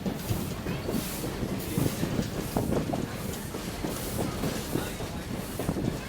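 Railway passenger car rolling along the track, heard from on board: a steady rumble and rattle with irregular clicks and knocks from the wheels on the rails.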